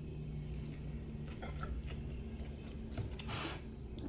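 Faint scattered clicks and small mouth and handling noises of quiet eating, with a short soft rustle about three seconds in, over a low steady room hum.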